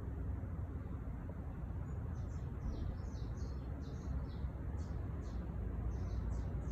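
A songbird chirping a quick run of short, high notes, starting about two seconds in, over a steady low rumble.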